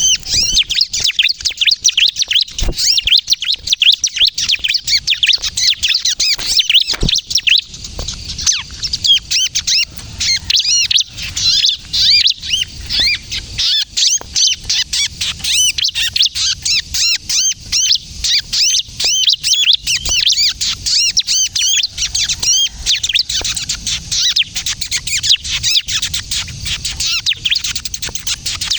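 Bar-winged prinia (ciblek) singing without pause in a rapid, dense stream of high, sharp chirps. This is the excited 'gacor' song and 'kejepit' call played as a lure for prinias.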